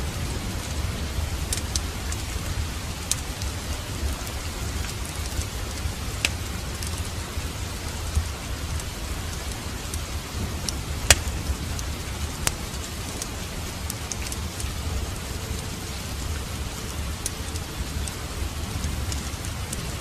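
Steady rain with a low rumble, over which a wood fire gives a few sharp crackling pops, the loudest about eleven seconds in.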